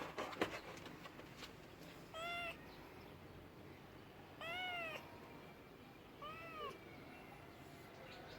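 Domestic cat meowing three times, short meows that rise and fall in pitch, about two seconds apart, after a few sharp clicks at the start.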